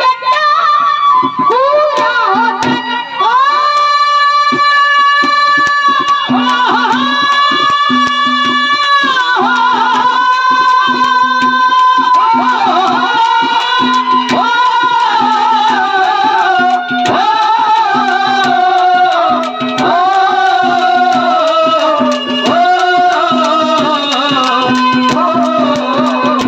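Harmonium playing a folk melody: long held high notes, then a run of notes stepping downward, over a pulsing low note and hand-drum accompaniment.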